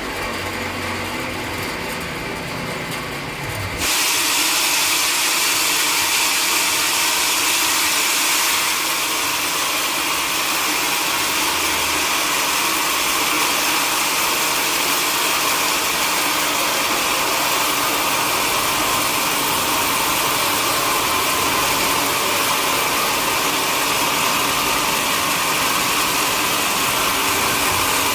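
Sawmill machinery running, then about four seconds in the saw bites into a large log and a loud, steady, hissing cutting noise carries on as the blade works through the wood.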